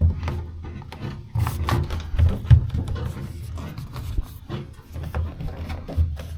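Irregular rubbing, rustling and light knocks of sound-deadening sheet material being handled and pressed onto the steel panels of a truck cab.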